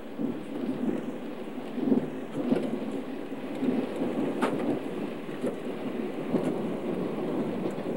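Running noise of a moving passenger train heard from inside a carriage: an uneven, steady rumble and rattle, with one sharp click about halfway through.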